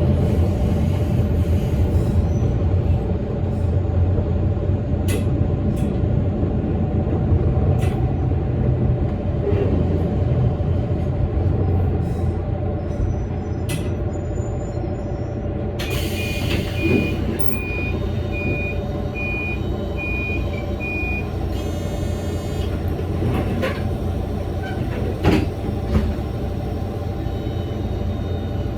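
Inside the cab of a Toyama Chiho Railway electric train: the steady hum of the running train with scattered clicks from the track. About 16 s in, a sudden hiss of air sounds, followed by a string of short, evenly spaced beeps lasting about five seconds.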